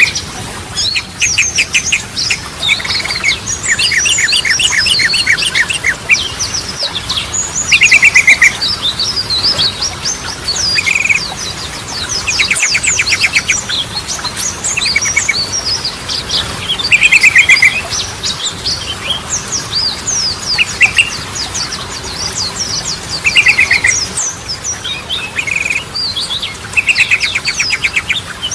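Sooty-headed bulbul (trucukan) singing continuously. Quick sharp chirping phrases run throughout, broken every few seconds by short, fast rattling trills.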